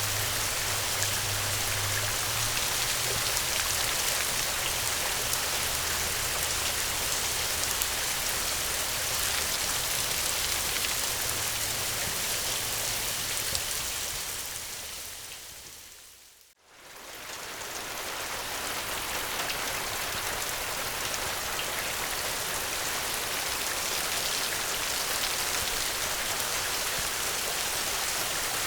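Steady heavy rain, with a low rumble in the first few seconds. About sixteen seconds in the rain fades out to a moment of silence and quickly fades back in, an edit point in the looped recording.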